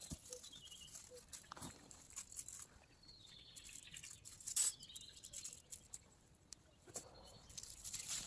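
Birds singing in short falling chirp phrases over scattered sharp clicks and crackles, with one louder crack about halfway through.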